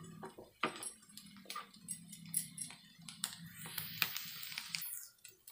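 Mashed potato roasting in oil in a pan, with scattered irregular crackles and clicks over a low steady hum, and a brief hiss about four seconds in.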